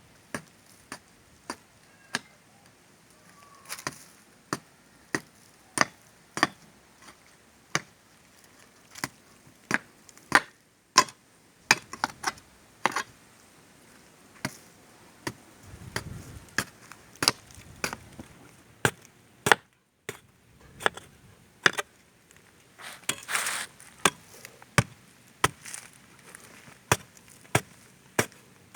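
Repeated sharp chopping strikes, roughly one a second at an uneven pace, with a short break about halfway through and a brief rustle later on.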